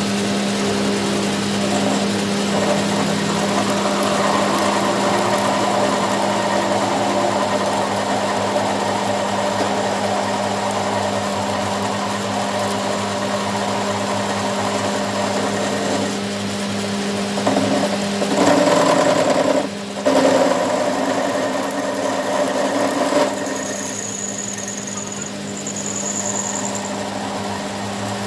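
A powered workshop machine running with a steady hum. Its sound changes about two-thirds of the way through, just after a brief drop-out.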